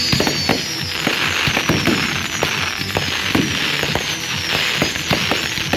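Aerial fireworks display: a rapid, unbroken series of shell bursts and crackling reports. High falling whistling tones recur about once a second over the bangs.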